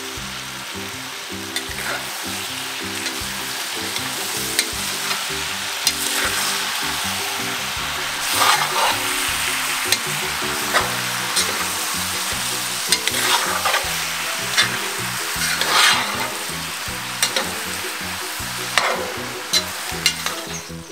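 Lamb ribs and tomatoes sizzling as they fry in a cast-iron potjie pot, while a spoon stirs them. The spoon scrapes and knocks against the pot every second or two.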